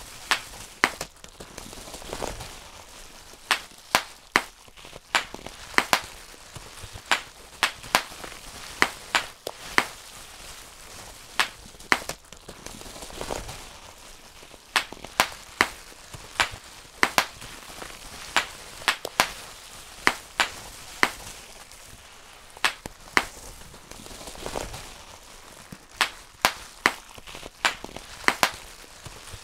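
Bubble wrap being popped one bubble at a time: sharp pops at an irregular pace of about one or two a second, with a low rustle of the plastic sheet between them.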